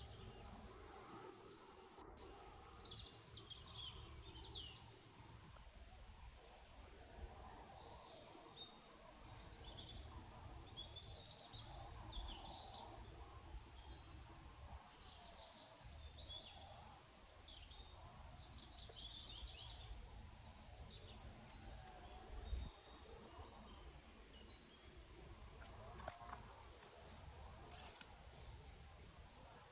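Faint chirps of small birds scattered throughout, over a low steady rumble, with a few brief clicks and rustles near the end.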